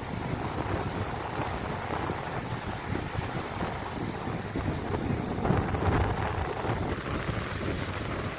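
Sea waves surging and washing in a steady wash of noise, with wind buffeting the microphone in low rumbling gusts.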